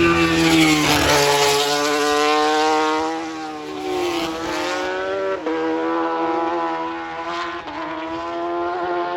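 Racing superbike engine running hard at high revs. Its pitch climbs and falls with the throttle and drops sharply about four and five and a half seconds in.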